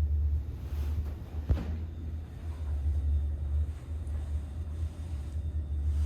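An old AC two-speed-controlled passenger-and-freight elevator running, with a steady low hum and rumble from its drive. There is a single sharp click about a second and a half in.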